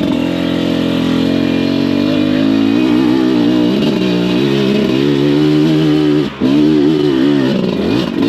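Beta enduro motorcycle engine revving up and down as the bike is ridden, with a brief drop in throttle about six seconds in.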